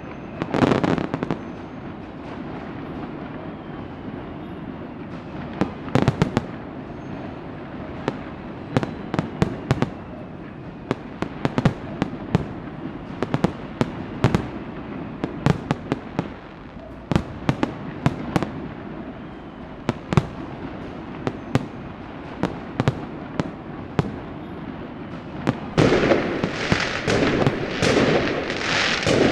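Fireworks and firecrackers going off: scattered sharp cracks and pops at irregular intervals over a steady background rumble, then a dense run of louder bangs in the last few seconds.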